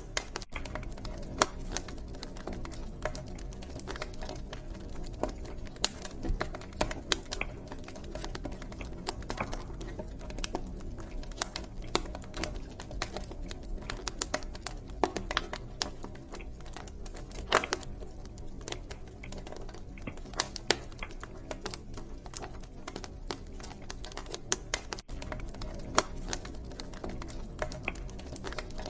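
Wood fire crackling in a fireplace: irregular sharp pops and snaps, several a second, over a steady low rush of the flames.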